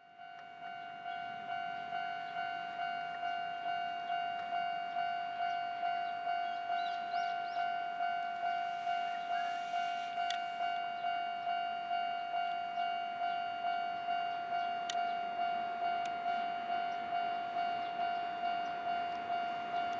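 Railway level crossing alarm bell ringing steadily, about two strikes a second, each a single bell-like tone that dies away before the next. It warns that a train is approaching.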